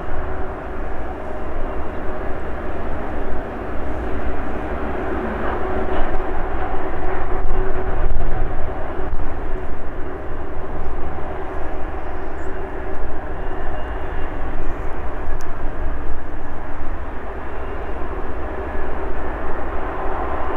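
Jet airliner engines running: a loud, steady rumble with a droning hum.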